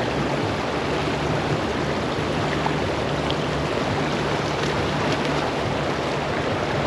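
River water rushing steadily past, an even, unbroken sound of flowing current.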